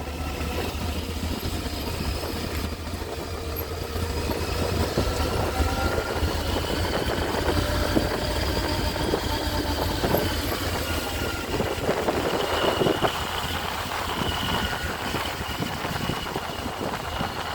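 Motorcycle engine running at low, slowly changing revs, its pitch drifting gently up and down over a steady low rumble.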